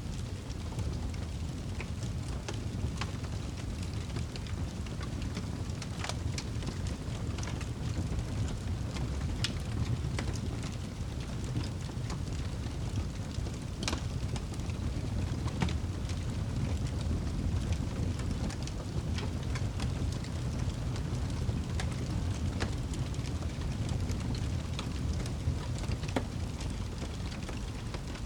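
Wood fire burning in a fireplace: a steady low roar with scattered, irregular crackles and pops.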